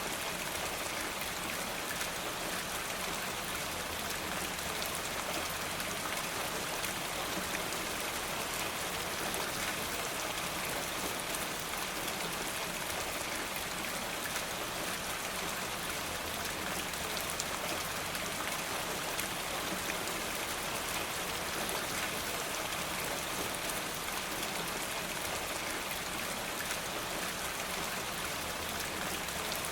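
Steady rain falling, an even hiss scattered with many small drop ticks, unchanging throughout.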